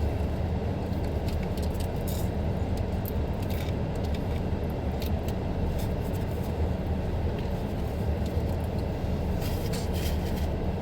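Steady low rumble of a running vehicle, with scattered light clicks over it.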